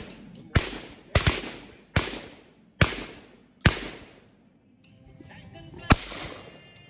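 A series of about seven sharp bangs, most of them roughly a second apart with a gap before the last, each ringing out for most of a second.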